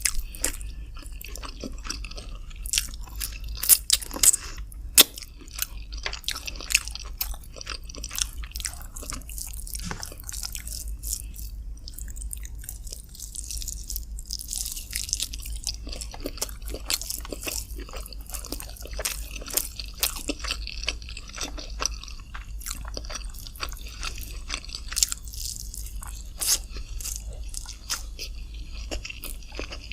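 Close-miked eating sounds: a person chewing and biting into chicken with rice, with many irregular sharp wet mouth clicks.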